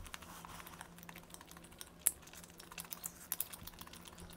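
Close-miked chewing of crispy fried chicken: irregular small crunching clicks, with one sharper crunch about two seconds in.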